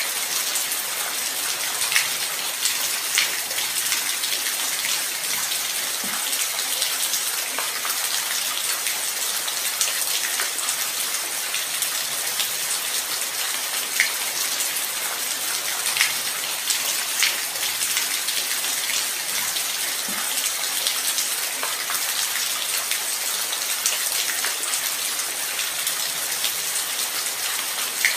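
Steady light rain: an even hiss of falling rain with scattered louder individual drops landing close by.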